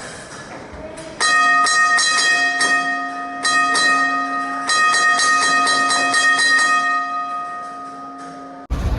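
A bell struck over and over in quick, uneven strokes for about seven seconds, each stroke ringing on into the next at the same pitches; it cuts off abruptly near the end.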